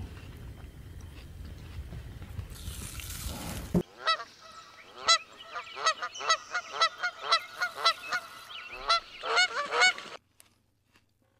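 A rapid series of honking animal calls, two to three a second, that cuts off abruptly, after several seconds of rough background noise.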